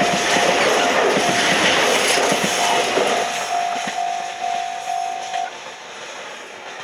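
A freight train hauled by an EF210 'Momotaro' electric locomotive passes over a level crossing, and its running noise fades after about three seconds. Over it the crossing's electronic alarm rings a repeated tone about twice a second, then stops about five and a half seconds in as the train clears.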